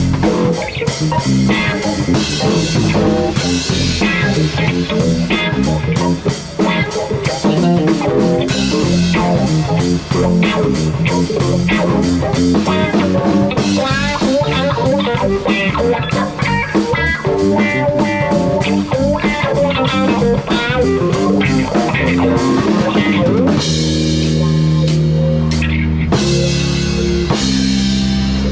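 Live rock band playing: electric guitar, bass guitar and drum kit. Near the end the drums thin out and long held chords ring.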